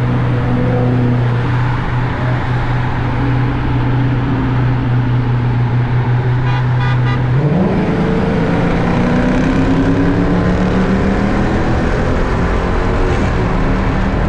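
Dodge Hemi V8 car engine and exhaust holding a steady low drone at constant speed. About seven and a half seconds in, the pitch climbs as the car accelerates, and the revs keep rising steadily.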